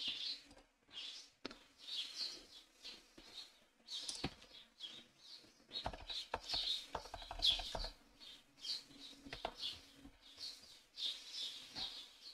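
A bird chirping over and over in short bursts in the background, with a short run of keyboard typing about six to eight seconds in.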